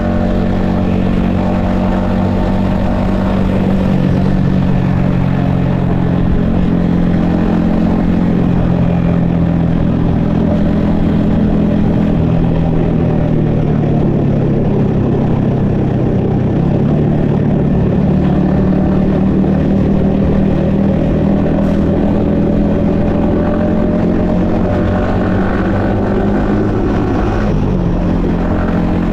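Yamaha XSR155's 155cc single-cylinder engine running at cruising speed, heard from the rider's helmet over wind rush. The engine note eases off in the middle and builds again, then dips sharply near the end and picks back up.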